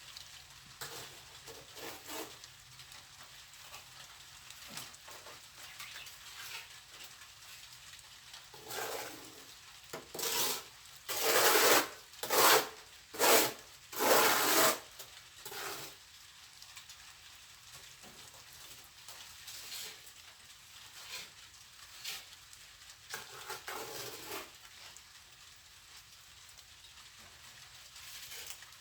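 A plastering trowel scraping and smoothing wet cement mortar, in short rubbing strokes. A run of four or five louder scrapes comes near the middle.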